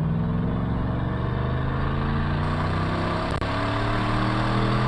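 Engine of a 1997 Ford F-150 running through a straight pipe with the muffler cut out: a loud, throaty exhaust note whose pitch swings up and down as the engine is revved. There is a brief tick about two-thirds of the way through.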